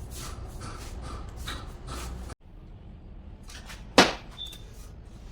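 A run of light taps and clicks, then after a sudden break a single loud, sharp knock about four seconds in, ringing briefly.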